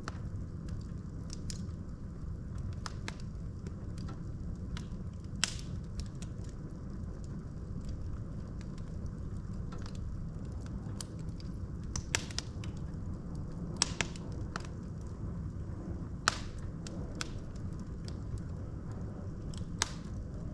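Wood fire burning in a fireplace: a steady low rumble of flames with irregular sharp crackles and pops from the burning logs, a few louder snaps scattered through.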